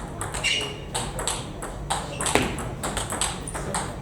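Table tennis balls clicking off bats and the table, many quick irregular ticks, with one sharper hit a little over halfway through.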